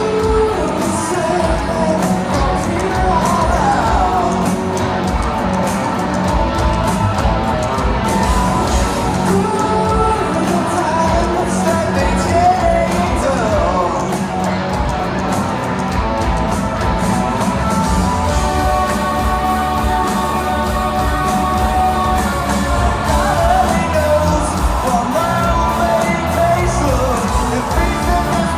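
Live rock band playing a song with a lead singer, loud and steady throughout.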